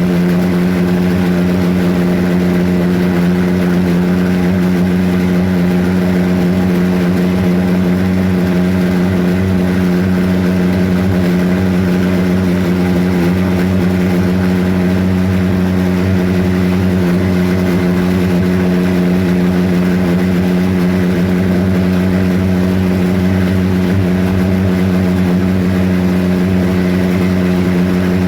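Homemade pulse jet engine running steadily: a loud, even drone holding one pitch throughout.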